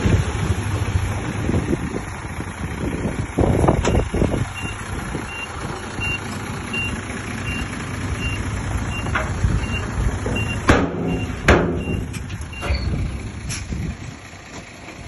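Diesel heavy equipment running with a reversing alarm giving a steady series of short high beeps for about eight seconds, from a machine backing up. A few sharp metallic knocks sound over it, loudest around the middle.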